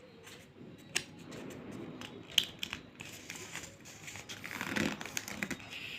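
A sheet of paper being handled and folded, rustling and crinkling, with a few sharp crackles as it is creased, the loudest about one and two and a half seconds in.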